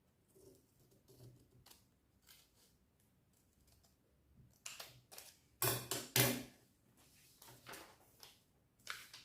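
Scissors cutting coloured paper: a series of short, crisp snips and paper rustles, the loudest a little past the middle.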